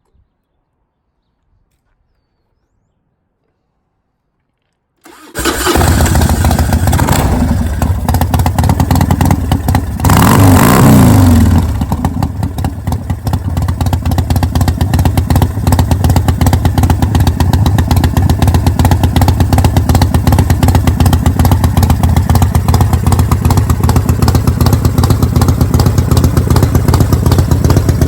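Motorcycle engine started about five seconds in, catching at once, revved once briefly a few seconds later with the revs falling back, then running at a steady, pulsing idle.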